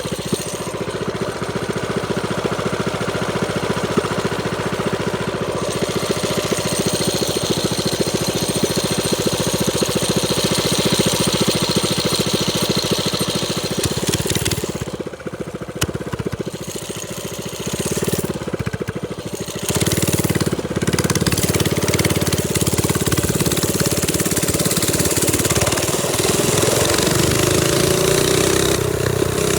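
Trailmaster Storm 200 minibike's small single-cylinder engine running while riding. It drops off for a few seconds past the middle, then runs harder again, its pitch rising near the end.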